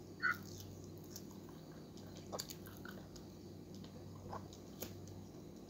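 Soft, wet chewing of ripe mango slices, with a few faint small smacks and clicks.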